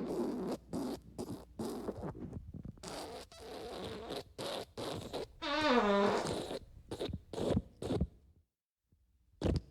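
Fart sound effects: a quick run of short, sputtering farts. Near the middle comes a longer one that falls in pitch. After a pause of about a second, more sputters start near the end.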